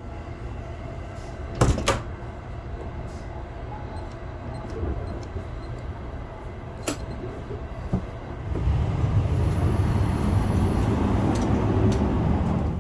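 Steady low rumble of the Sunrise Izumo sleeper train (a 285 series electric train) running, heard from inside a sleeping car. A sharp double click of the compartment door's latch and lock comes about two seconds in, with single clicks later, and about two-thirds of the way through the running noise grows louder.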